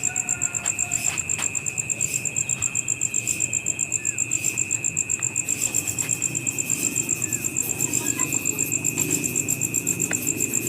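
Insects, crickets among them, calling: a loud high chirp pulsing about five or six times a second over a steady, lower high-pitched drone.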